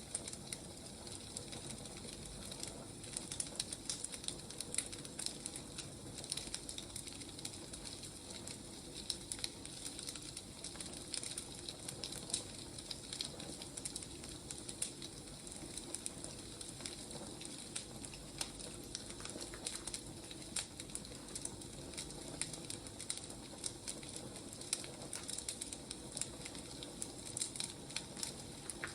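Burning firewood crackling: irregular sharp crackles over a soft steady hiss.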